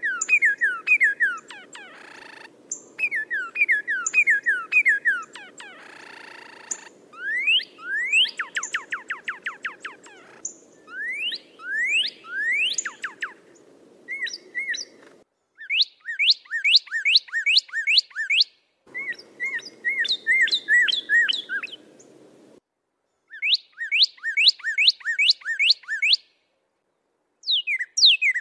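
A songbird singing rapid repeated series of whistled notes, some swooping down and some sweeping up, in phrases broken by sudden cuts; a low hum sits under the first half and again in the middle.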